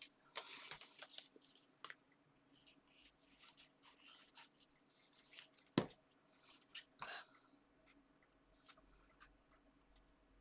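Paper and card being handled on a desk: faint rustles and small taps, with one sharp tap about six seconds in.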